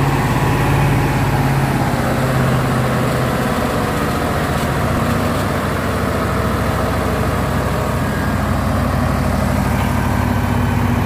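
Truck engine running at a steady idle.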